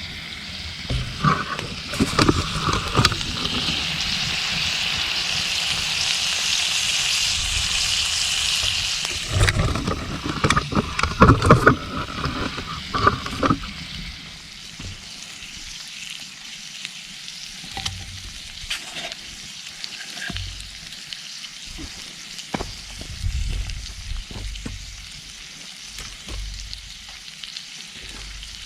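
Food sizzling in hot oil in a pan over a campfire, loudest in the first third and then settling to a quieter sizzle. A run of knocks and clatter from utensils on the pan comes in the middle.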